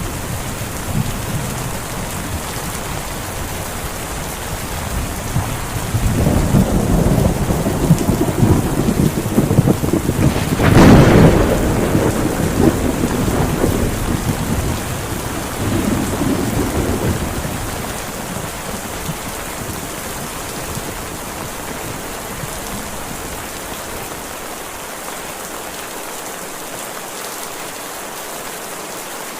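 Heavy rain falling steadily, with a roll of thunder: a rumble builds about six seconds in, peaks in a sharp crack near the middle, and rolls away over several seconds.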